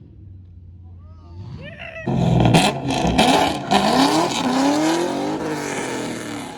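Vehicle engine revving hard with a loud exhaust, starting about 2 s in with a few sharp cracks, then climbing in pitch over several revs before dying down near the end.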